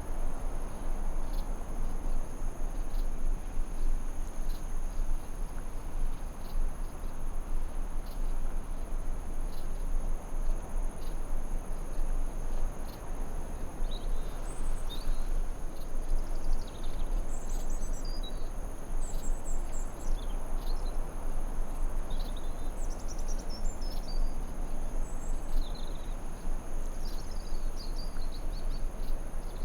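Forest ambience: a steady, even hiss of background noise under a constant high insect trill. From about halfway through, small birds chirp in short, quick phrases.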